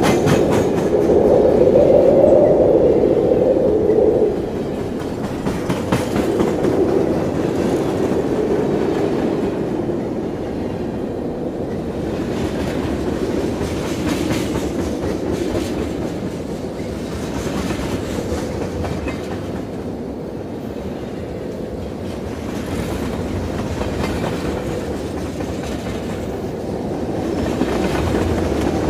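Yellow Line monorail train running along its guideway, a steady rumble that is loudest in the first four seconds and then eases to an even level.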